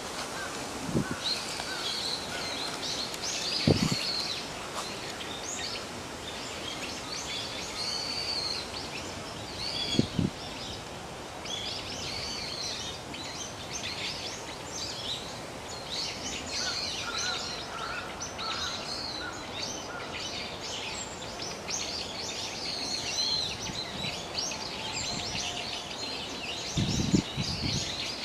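Wild birds chirping and calling over and over, many short high chirps overlapping. A few dull low thumps are scattered among them.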